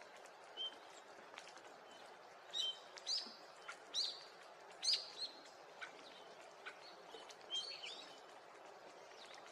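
Eurasian bullfinch calling: a string of short whistled notes, loudest in the middle, over a steady faint background hiss.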